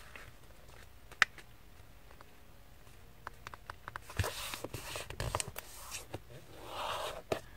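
A sheet of paper being folded in half and creased by hand: one sharp tap about a second in, then scattered crackles and rubbing from about three seconds in.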